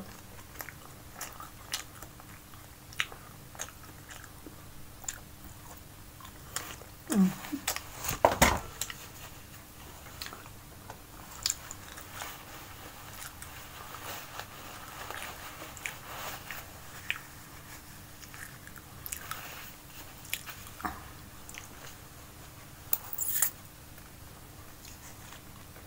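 A person chewing and biting food close to the microphone, with scattered small clicks and crunches. A louder knock comes about eight seconds in, and a short tissue-paper rustle near the end.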